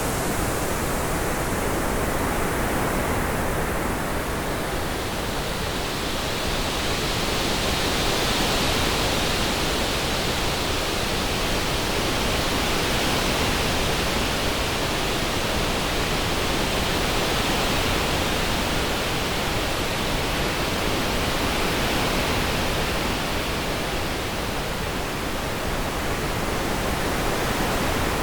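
Synthesized orange noise: a steady, even hiss panned around in space to suggest moving wind. A brighter band in the upper middle swells in and fades out again over many seconds.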